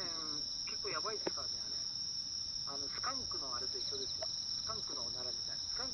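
Night insects, crickets, chirping steadily in a high continuous trill with a second, slightly lower trill pulsing on and off. Faint voices of people talking come and go, and the campfire gives a single sharp pop about a second in.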